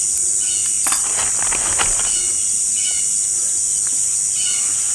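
A steady high-pitched insect chorus, with short bird chirps repeating every second or so and a couple of light clicks about one and two seconds in.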